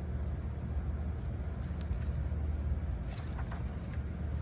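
Steady high-pitched insect chorus, a continuous even buzz with no breaks, over a steady low rumble.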